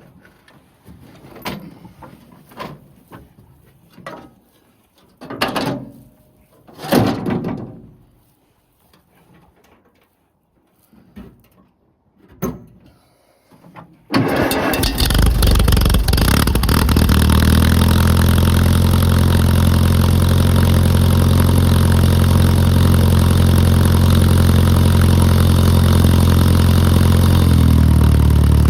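Scattered clunks and knocks, then about halfway through a Case D tractor's four-cylinder engine starts at once and runs steadily, its pitch dropping slightly near the end.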